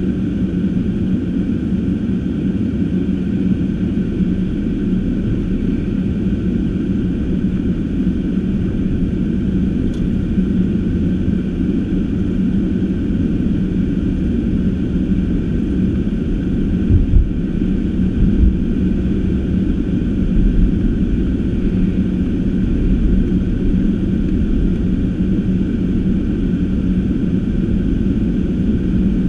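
Car driving at a steady pace: a continuous low engine and road rumble with a steady hum, and a few heavier low thumps about two-thirds of the way through.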